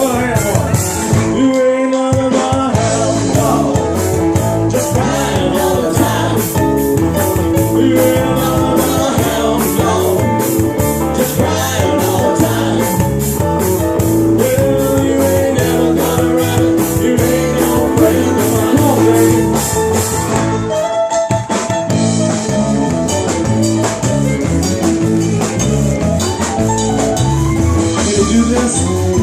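Live rock and roll band playing, with electric guitar over a steady drum-kit beat; the beat breaks off briefly about twenty seconds in, then picks up again.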